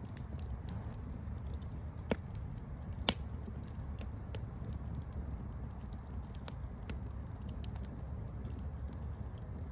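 Campfire burning with a steady low rumble and scattered small crackles, with two louder pops about two and three seconds in.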